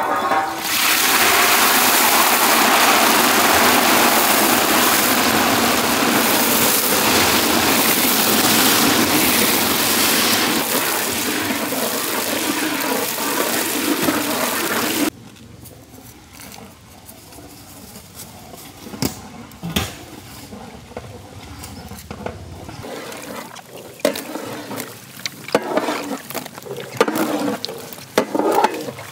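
Cut brinjal pieces going into hot oil, the oil sizzling loudly and evenly for about fifteen seconds before the sound cuts off suddenly. After that, a quieter stretch of scattered clinks and knocks.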